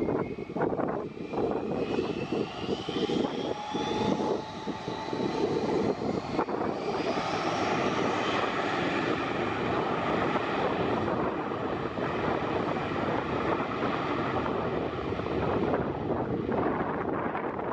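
Airbus A320 jet engines spooling up with a rising whine over the first few seconds, then running steadily at high power for the takeoff departure. Wind buffets the microphone near the start.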